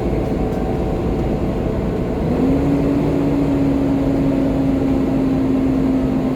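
Volvo B7TL double-decker bus's six-cylinder diesel running under way, a steady rumble with a clear drivetrain whine that rises in pitch about two seconds in and then holds steady.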